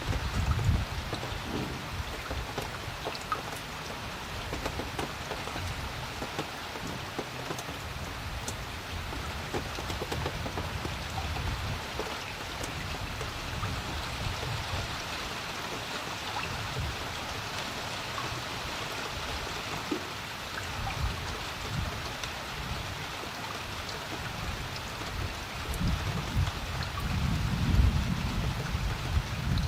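Steady rain pattering on a creek's surface, with a low rumble swelling in twice, the second time near the end.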